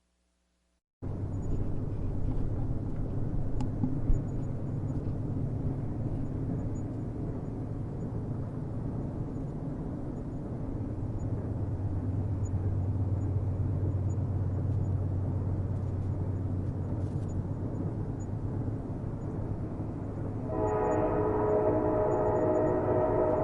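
Train running with a steady low rumble, starting after about a second of silence. Near the end a train horn sounds and holds, a chord of several tones.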